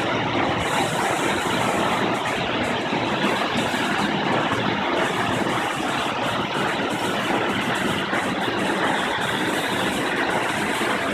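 Large waterfall: a steady, loud rush of falling water crashing into the pool, even and unchanging throughout.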